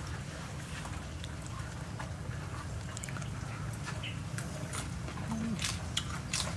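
Close-up eating sounds: lettuce leaves and raw salmon being crunched and chewed, with sharp mouth-smacking clicks scattered irregularly, over a steady low rumble.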